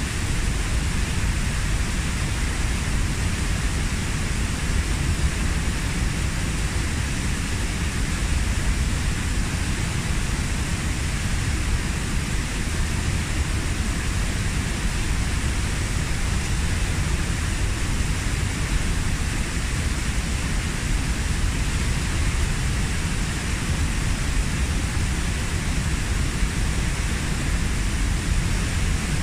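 A waterfall of about 15 m pouring into its pool: a steady, unbroken rush with a deep rumble underneath.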